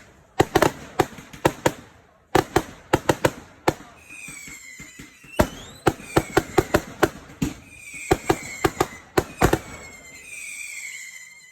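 Finale Velocity firework cake firing, a rapid string of sharp shots. From about four seconds in, high whistles falling in pitch sound between the shots.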